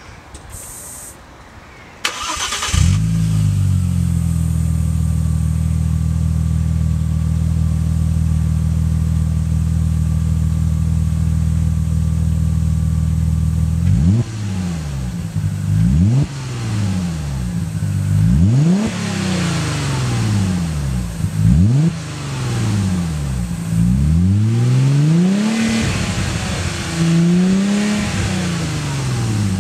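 Audi B5 RS4's twin-turbo 2.7-litre V6 with a Scorpion cat-back exhaust: briefly cranked, it catches about two seconds in and idles steadily. About halfway through it is blipped repeatedly, the exhaust note rising sharply and falling back each time.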